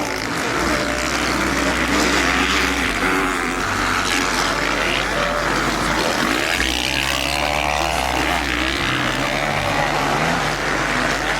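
Motocross motorcycle engines revving, over a music track's steady bass line.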